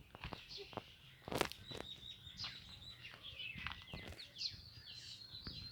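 Small birds chirping and twittering, with short high chirps and a thin high held note, mixed with several sharp clicks and one louder knock about a second and a half in.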